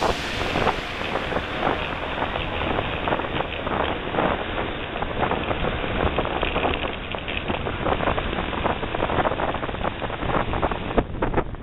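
Wind rushing over the microphone of a bicycle descending a rough forest road, with a dense run of rattles and knocks from the bike bouncing over the track.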